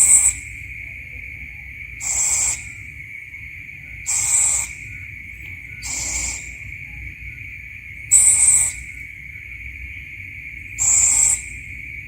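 An owl giving short, rasping, hiss-like calls about every two seconds, six in all, over a steady high insect drone.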